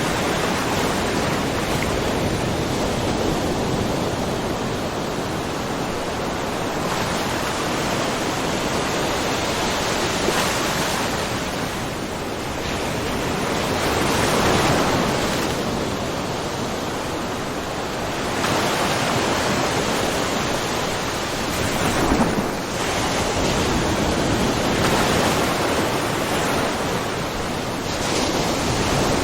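Small ocean waves splashing and washing against a rocky shore, a steady hiss of water that swells and ebbs every few seconds, with a sharper splash about 22 seconds in.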